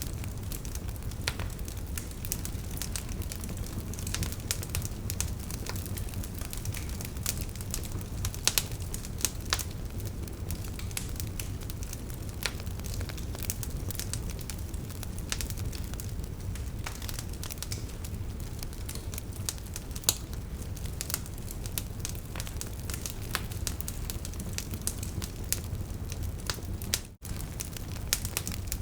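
Wood fire crackling and popping, with sharp irregular snaps over a steady low rumble of the flames; the sound drops out for a moment near the end.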